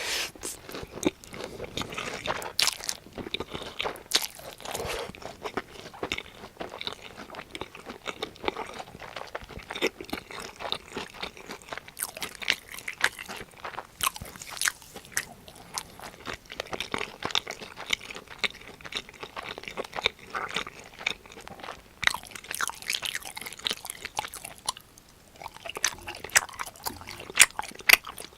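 Close-miked biting and chewing of a crispy breaded cheese pork cutlet: continuous crunching of the fried crust with many sharp crackles, pausing briefly twice late on.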